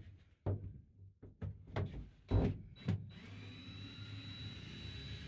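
A few knocks, then from about three seconds in a cordless drill running steadily with a thin high whine, backing screws out of the camper's interior panelling.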